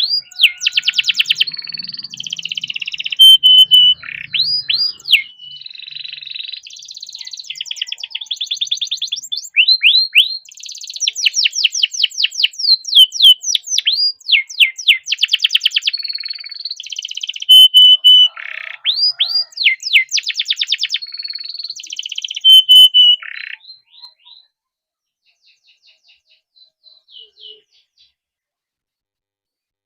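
Domestic canary singing a long, fast rolling song of rapid trills and quickly repeated high notes. It stops about three-quarters of the way through, with only a few faint notes afterwards.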